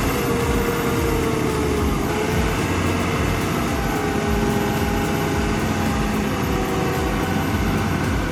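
Fendt 822 tractor's engine running steadily while driving through thick mud, a continuous drone with faint steady tones.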